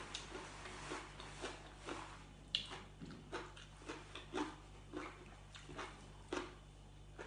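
Mouth chewing boiled pork ear, the cartilage crunching in short, irregular clicks about twice a second, over a faint steady low hum.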